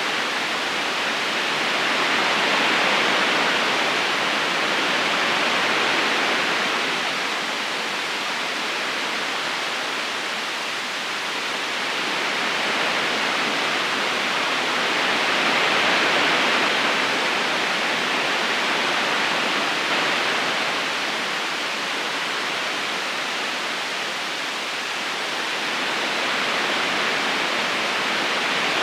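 Steady rushing of a river current flowing over stones: an even wash of water noise with no distinct splashes, swelling slightly louder and easing back every several seconds.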